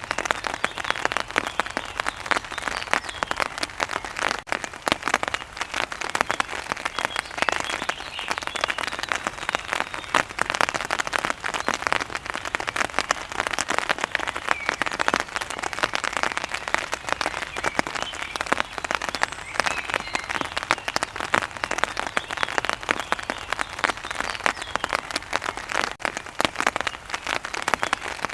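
Steady rain pattering on a surface, a dense, even stream of drops that does not let up.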